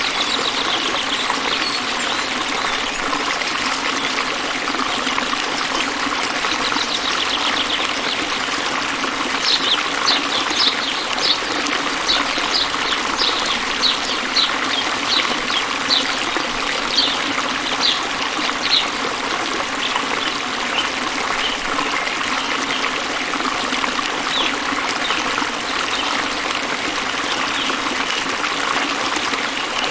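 Water trickling and running steadily in a stream. From about a third of the way in to past the middle, a series of short high chirps repeats, one or two a second.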